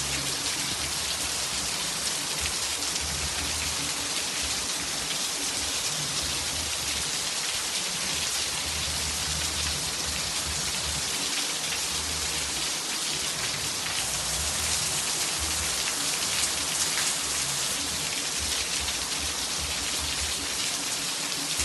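Calm, steady rain falling and hitting surfaces, an even hiss with no thunder.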